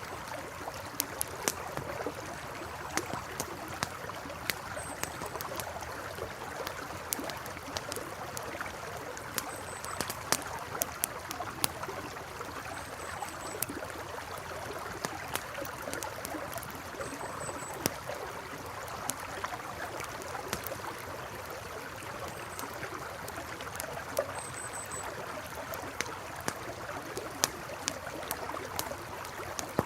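Campfire by a flowing river: the river's steady rushing runs underneath while the burning wood crackles in sharp, irregular pops. A faint, short, high chirp recurs every few seconds.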